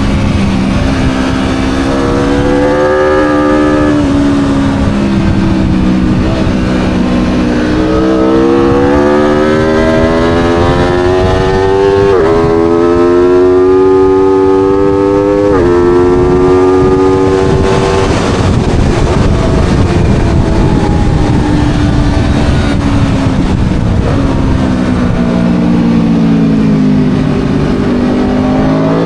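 Aprilia Tuono V4's V4 engine at full load on track: the revs climb hard, with two quick upshifts about halfway through. The revs then fall away as the bike slows, and it accelerates again near the end.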